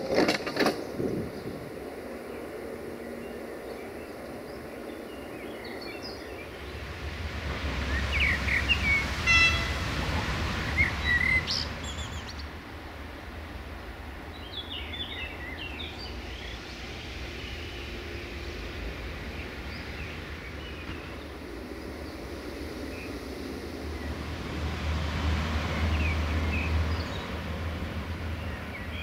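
Small birds chirping on and off over steady outdoor background noise, with two low rumbling swells and a few sharp knocks in the first second.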